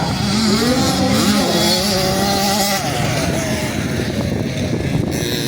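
Small 65cc two-stroke motocross bike engines racing on the track, several engines revving and falling in pitch at once.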